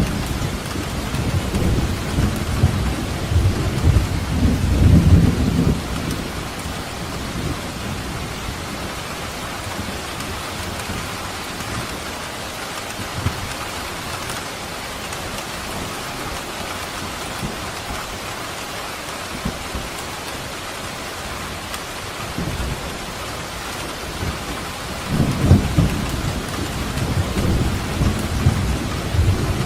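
Steady rain falling, with thunder rumbling for the first few seconds and rolling in again about 25 seconds in.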